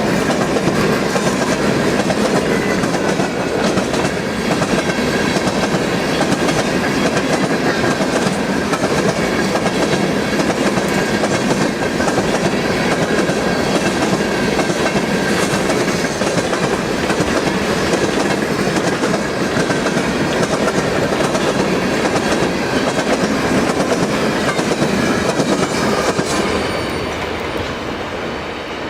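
Freight cars of a rock train rolling steadily past, wheels clicking over the rail joints with a faint squeal. The sound eases off slightly near the end.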